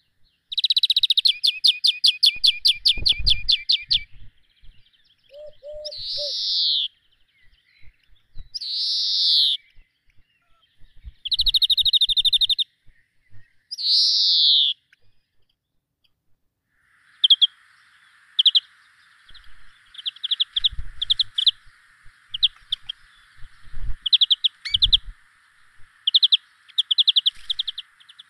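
Small songbirds singing. The song mixes rapid, buzzy trills with single swooping whistled notes, broken by short pauses. Later the song comes as shorter chirping phrases over a faint steady hiss.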